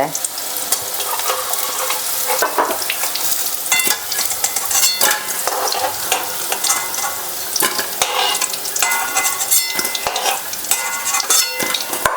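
Batter-coated baby corn sizzling as it deep-fries in hot oil in a kadai, with a metal spoon clicking and scraping against the pan as the pieces are stirred and lifted out.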